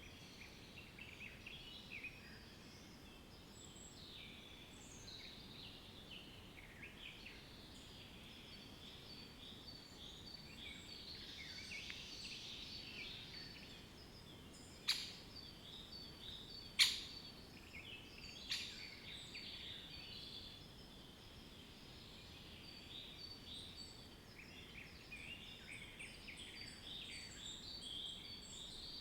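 Faint chorus of many small birds chirping and trilling over a soft outdoor background hiss. Three sharp clicks sound about halfway through, a second or two apart.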